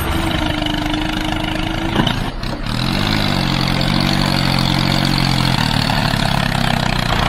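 Engine running steadily, its pitch rising about three seconds in and then holding.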